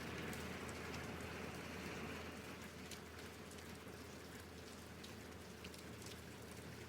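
Rain falling, a steady hiss with scattered sharp drip ticks; the hiss eases slightly a little over two seconds in while the drips stay.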